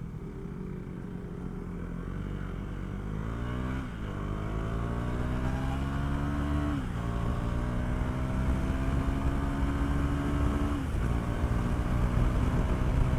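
Motorcycle engine accelerating through the gears: its pitch climbs steadily in each gear and drops sharply at three upshifts, getting louder as it goes, then cuts off abruptly.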